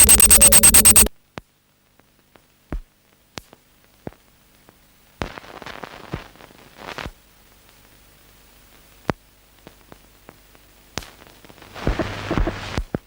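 Fast-pulsing electronic music that cuts off abruptly about a second in. It gives way to sparse, isolated clicks and pops over near silence, a short stretch of hissing static in the middle, and denser crackling noise near the end.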